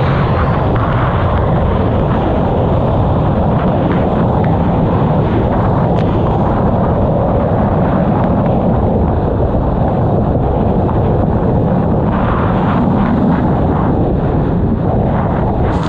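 A 1999 Sea-Doo XPL personal watercraft's two-stroke engine running steadily under way, with wind buffeting the microphone.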